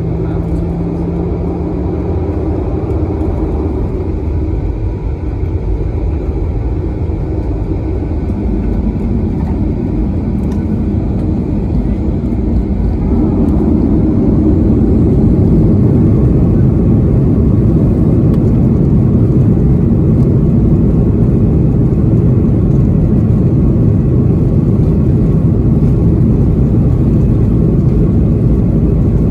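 Boeing 737-800's CFM56 jet engines and airframe rumble heard inside the cabin. The noise builds over several seconds, then holds steady at a louder level from about a dozen seconds in.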